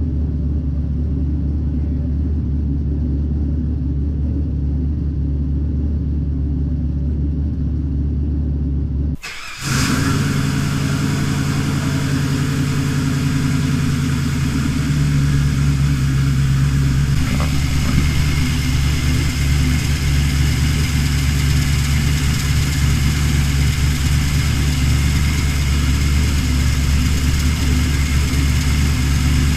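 LS V8 in a twin-turbo E36 idling steadily, in its first run on newly fitted 850cc injectors and a fresh tune. It breaks off for half a second about nine seconds in and comes back brighter and a little louder, with the idle note rising slightly around fifteen seconds in.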